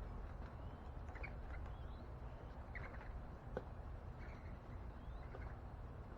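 Faint, short bird chirps and small rising whistled notes scattered throughout, with one sharp click about three and a half seconds in, over a steady low background rumble.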